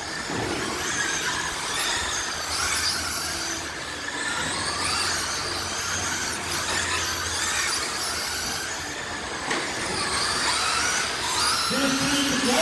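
Several radio-controlled race cars whining around the track, their motors rising and falling in pitch as they speed up and slow down.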